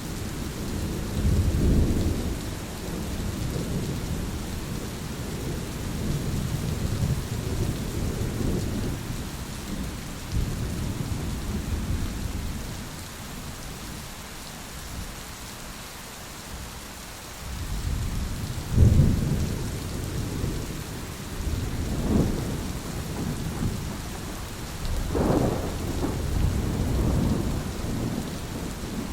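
Thunderstorm: rolling thunder rumbling over steady rain. The thunder eases off for a few seconds in the middle, then a sudden louder clap comes about two-thirds through, followed by more rumbles.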